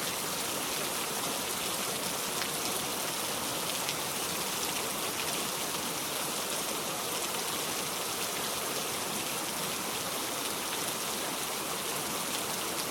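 Steady rain falling: an even hiss with faint scattered drops.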